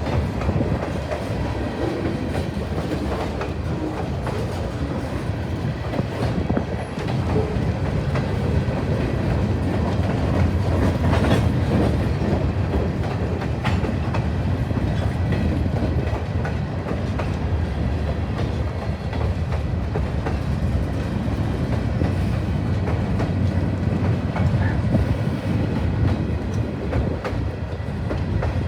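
A train passing close by, its railcars rolling past steadily with the clickety-clack of wheels over rail joints and now and then a sharp click.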